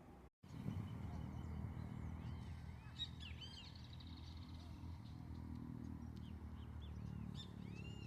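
Small birds chirping in short rising-and-falling calls, a cluster about three seconds in and a few more near the end, over a steady low rumble.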